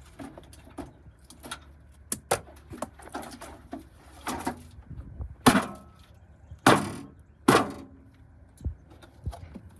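Hamilton Beach microwave being smashed: scattered light knocks and rattles, then three heavy blows with a short ringing tail, about a second apart, a little past the middle.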